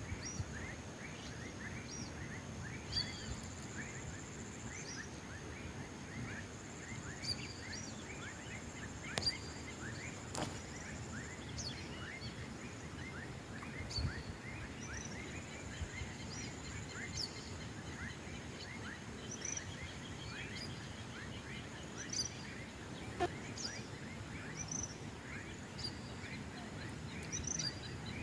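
Several wild birds calling, with many short, quick chirps repeating over a faint steady outdoor hiss. A thin high tone sounds briefly a few seconds in, and there are occasional soft ticks.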